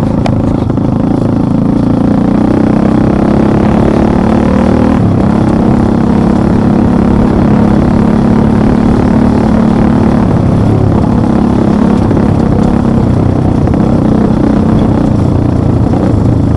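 Motorcycle engine running loudly and steadily, its note shifting a few times.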